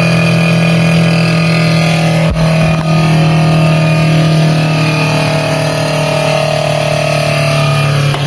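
Evaporator fan motor of a Brastemp BRE57AB frost-free refrigerator running with a loud, steady droning hum whose overtones drift slightly in pitch, with a brief click about two seconds in. The noise comes from a fan that was about to seize, which the technician puts down to a lack of lubrication.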